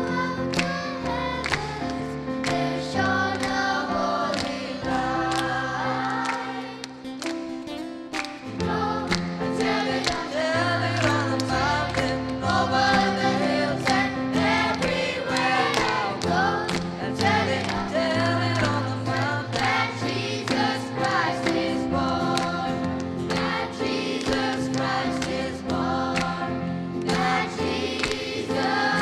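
Choir singing a Christmas carol, backed by instruments with sustained bass notes and a steady percussive beat.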